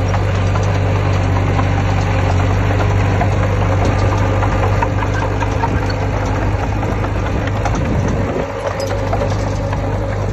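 Diesel engine of heavy earthmoving machinery running steadily, with a deep hum, and a brief dip in level about eight seconds in.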